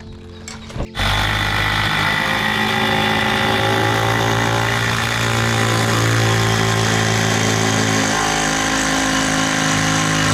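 An engine starts running about a second in and then runs steadily at an even pitch.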